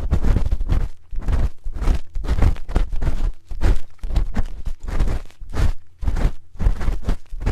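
A spoon rubbing and scraping against an ear-shaped ASMR microphone in repeated strokes, about two a second. Each stroke is a short swell of scratchy noise with a heavy low rumble close on the mic.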